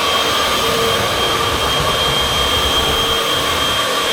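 Upright vacuum cleaner (model UH70605) running steadily while vacuuming a floor, a constant motor hum with a high whine on top.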